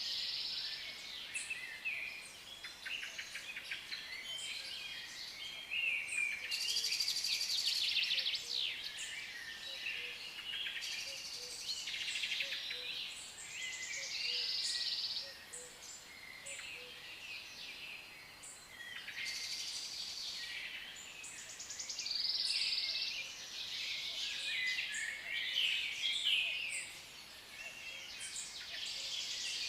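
A group of African lovebirds chattering, with many high-pitched chirps and squeaks overlapping without a break and growing louder and softer every few seconds.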